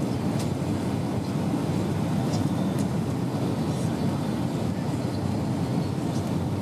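Steady cabin noise inside an Airbus A320 in flight on descent: a continuous low rush of airflow and IAE V2500 engine noise, with a few faint ticks.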